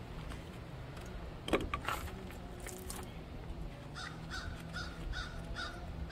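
A bird calling: a quick run of about six calls, two or three a second, starting about four seconds in, over a low steady background hum. A single sharp knock comes about a second and a half in.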